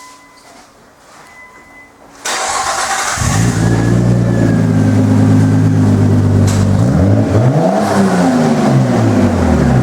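Nissan Skyline ER34 25GT Turbo's RB25DET turbocharged straight-six, breathing through a BLITZ aftermarket muffler, cranked on the starter about two seconds in and catching almost at once, then idling steadily. About seven seconds in it is blipped once, the revs rising and falling back to idle. Before the start a faint repeated beep is heard.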